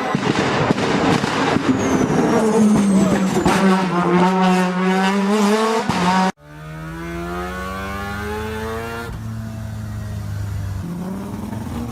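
Mazda rotary (Wankel) engines running hard: one loud rotary whose pitch wavers up and down cuts off suddenly about six seconds in, giving way to a second, quieter rotary holding steady revs that climb slightly near the end.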